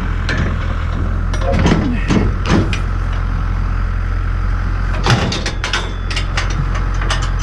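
Tractor engine running steadily, with a string of sharp knocks and rattles over it, several of them about two seconds in and again from about five seconds in.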